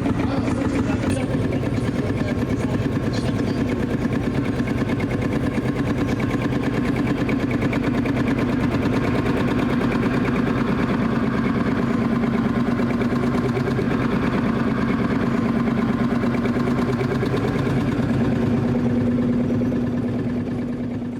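Vintage tractor engine running steadily at an even, low speed close by, its note holding the same pitch throughout and fading out at the very end.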